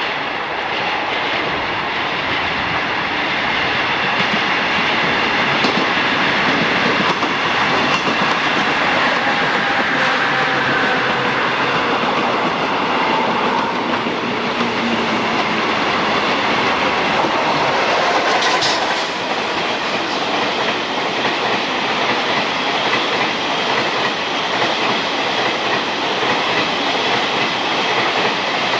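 A long train runs past for the whole stretch, its wheels clacking over the rail joints, with a faint whine that slowly drifts in pitch. A short, sharp high-pitched sound cuts through about two-thirds of the way in.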